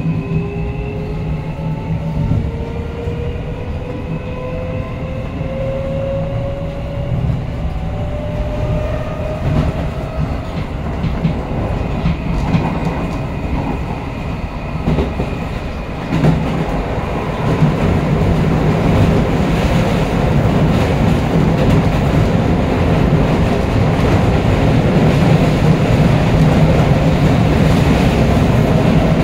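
Keio Line commuter train heard from inside the passenger car as it gathers speed: the traction motor whine rises steadily in pitch over the first ten seconds or so, over the rumble of the wheels on the rails. The rumble grows louder from about halfway through as the train runs at speed.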